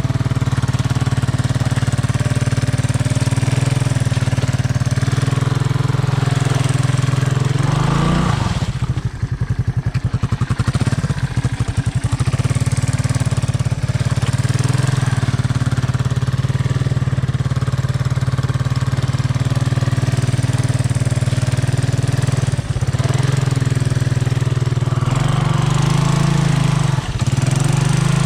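Honda ATC 200M three-wheeler's single-cylinder four-stroke engine running steadily. About eight seconds in the revs drop for a few seconds to a slow, uneven chugging, then pick up again. Near the end they rise again.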